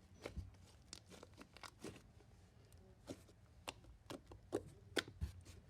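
Hand handling noises while working slime with a dot marker: about a dozen irregular small clicks and taps, the loudest a little before the end.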